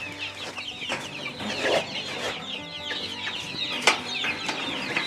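A brood of young chicks peeping steadily, many short high falling peeps overlapping. A single sharp knock about four seconds in.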